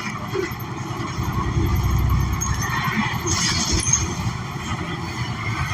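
Inside a New Flyer XN40 city bus: the low rumble of its Cummins Westport ISL G natural-gas engine and road noise, with a short hiss about three seconds in.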